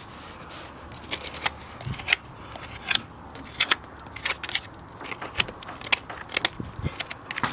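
Farrier's hand tools working on a horse's hoof: short, irregular scrapes and clicks, a few a second, as horn is pared and cleaned away.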